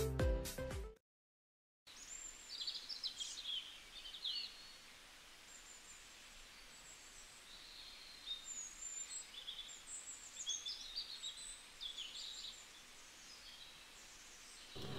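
Background music ends about a second in; then several birds give faint, scattered chirping and trilling calls over a light hiss of outdoor ambience.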